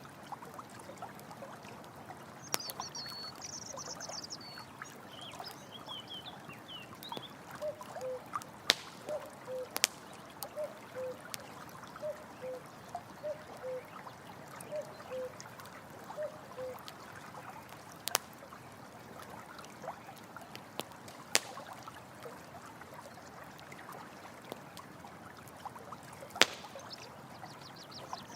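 Running stream trickling and splashing steadily, with a campfire crackling in sharp occasional pops. A bird chirps briefly a few seconds in and again near the end, and a soft low two-note call repeats about once a second through the middle.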